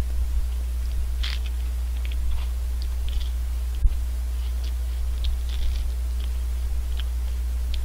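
Close-up crunching and chewing of a Cledor vanilla almond ice cream cone, its wafer cone and nut topping giving irregular small crackles, with one sharp click about four seconds in. A steady low hum runs underneath.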